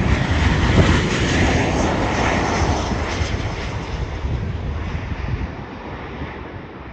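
Boeing 737 twin-jet engines on a landing airliner passing close by: a loud, steady jet noise that fades away over the last few seconds as the plane moves off.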